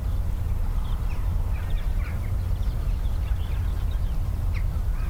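Small birds chirping briefly here and there over a steady low rumble.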